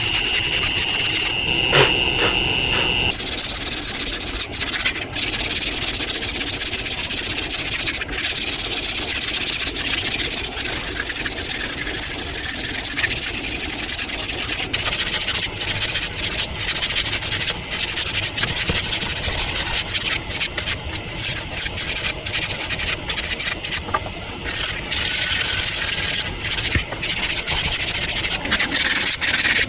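Steady scraping and rubbing, like sanding or rasping a surface by hand, in uneven strokes with brief pauses. A high steady whine runs through the first three seconds and then cuts off.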